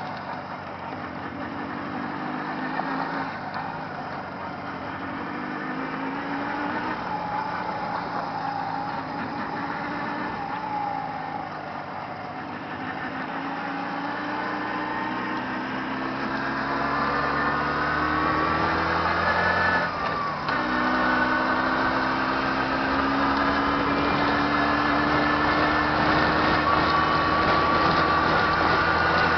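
Jawa 638 motorcycle's two-stroke twin engine under way, the revs rising and falling, then climbing steadily through the second half. About two-thirds through the engine note drops suddenly at a gear change and climbs again from a lower pitch, over a steady rush of wind and road noise.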